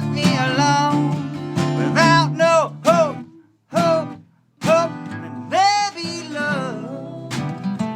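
A live band song with strummed acoustic guitar and a singing voice. The music breaks off abruptly about three and a half seconds in and comes back about a second later.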